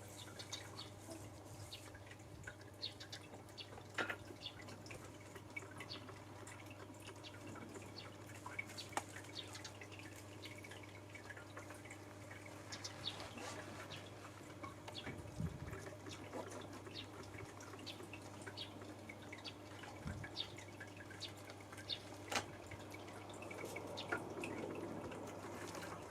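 Eurasian tree sparrows chirping faintly in short, scattered calls, over a low steady hum.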